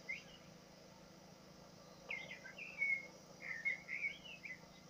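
A small songbird singing two short, chirping warbling phrases, the first about two seconds in and the second a second later, over a faint steady hiss.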